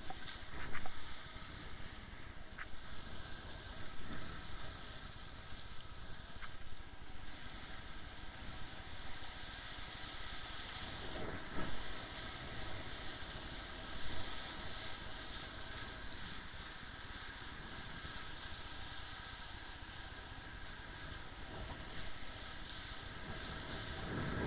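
Motorboat's outboard engine running steadily, with water and wind noise over it and a few faint clicks in the first seconds.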